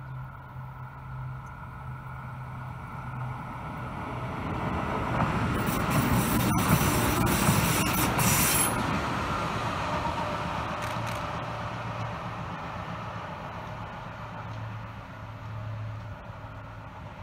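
A red-and-white ÖBB regional multiple-unit passenger train passing on the line. It grows louder, is loudest from about six to nine seconds in with a rush of wheel and rail noise and a few sharp clicks, then fades as it runs away into the distance.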